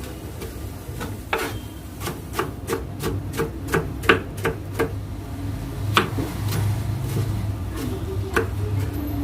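Knife chopping on a cutting board: a run of quick, even strokes, about three a second, then a few scattered strokes.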